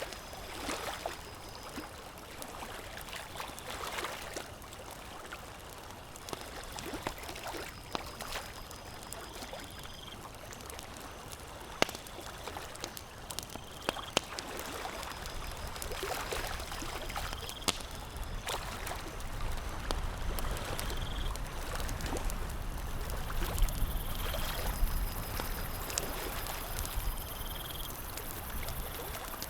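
Campfire crackling with scattered sharp pops, over a steady wash of water. A short high tone repeats every couple of seconds, and a low rumble builds in the second half.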